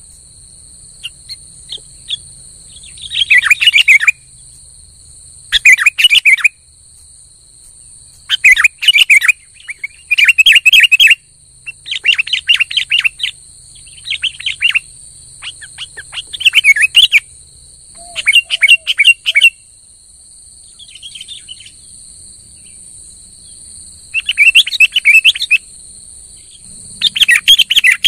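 Sooty-headed bulbul (kutilang) singing loudly in repeated short, bubbling song phrases about every one to two seconds, with a brief lull near the middle. It is singing freely and often, the 'gacor' state.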